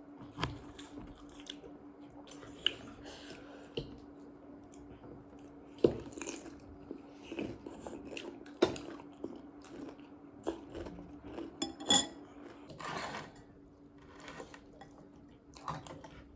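Close-up eating sounds: chewing and crunching food, with utensils clicking and knocking against dishes now and then, over a steady low hum.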